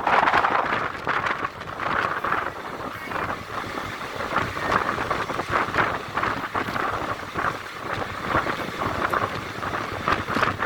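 Train running along the track: a steady rush of noise with many irregular rattles and knocks from the wheels and carriage, and wind on the microphone.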